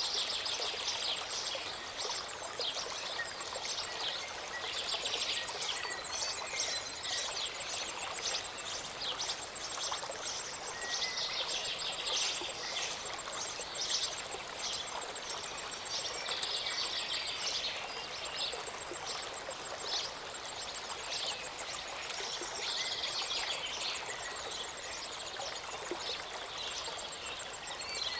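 A small mountain stream rushing steadily, with birds chirping and singing in frequent short bursts over the water.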